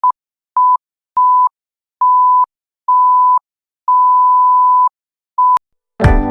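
Seven electronic beeps at one steady pitch and of uneven lengths, from short blips to one lasting about a second, with dead silence between them. A click follows, and strummed acoustic guitar music begins near the end.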